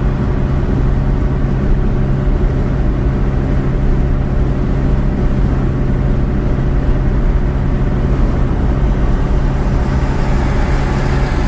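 Steady road and engine noise of a car being driven, heard from inside the cabin: an even, unbroken drone with a strong low hum.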